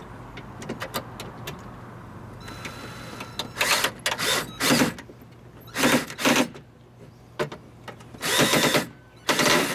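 Plastic door parts rattling and clicking in about half a dozen short bursts as a small sensor is worked back into place inside a car door, under a faint steady hum.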